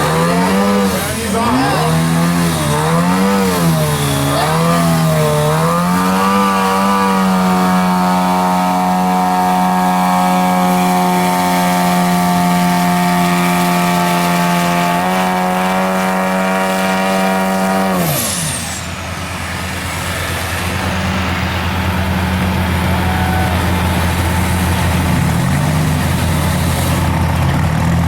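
Mega truck engine revving up and down, then held at high revs for about ten seconds before dropping off sharply and settling to a lower, steady idle.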